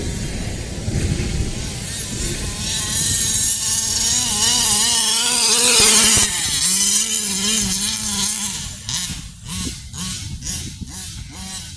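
45cc two-stroke engine of a 5th-scale gas RC Baja with a Big Gun expansion pipe, revving up and down under throttle as the truck is driven. The pitch climbs to its highest about six seconds in, then drops, and breaks into short throttle blips near the end.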